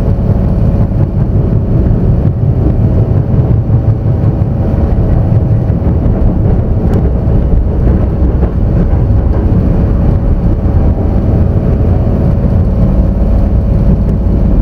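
Kintetsu Vista Car limited express heard from inside while running at speed: a steady, loud low rumble with a steady hum above it.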